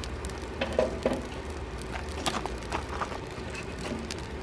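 Firewood being split: several sharp knocks of wood being struck, the two loudest about a second in and more a little after two seconds.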